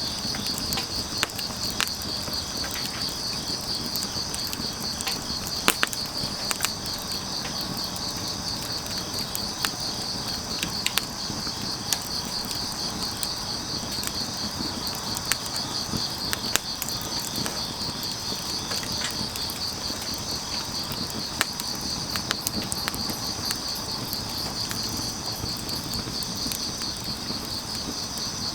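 Crickets trilling steadily in a pulsing chorus over a wood fire crackling, with scattered sharp pops at irregular intervals.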